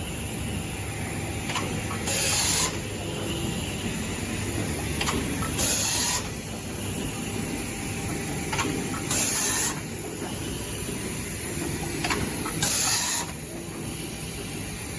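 Aida 1000-ton cold forging transfer press running, with a short burst of air hiss about every three and a half seconds, each just after a faint click, over a steady low machine rumble.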